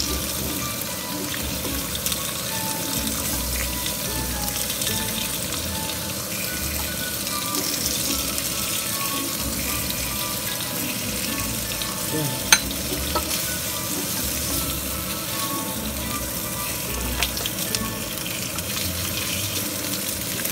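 Pancake batter and kielbasa slices sizzling steadily in a frying pan, with a single sharp click about twelve seconds in.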